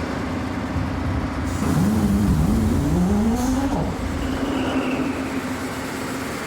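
A fishing boat's main diesel engine being restarted after its fuel filters were changed for lost fuel pressure. Over a steady low rumble, it gets louder about a second and a half in, its pitch sweeping up and down for a couple of seconds as it catches, then settles into a steady run.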